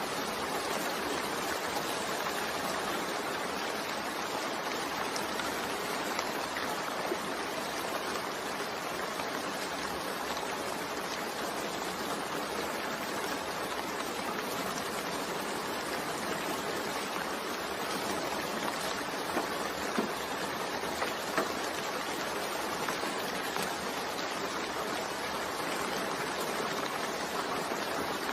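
Steady rain mixed with white noise: an even, continuous hiss with no breaks, and a few slightly louder drop taps about two-thirds of the way through.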